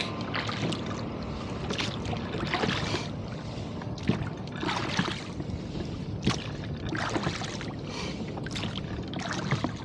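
Water splashing and lapping around a rowboat under way in a wind chop, with irregular short splashes about once a second over a steady wash of water.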